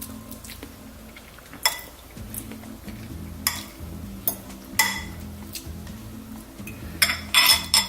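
A stirring utensil knocking and clinking against the side of the container as it stirs the potassium hydroxide solution: a few separate clinks, then a quick cluster of them near the end.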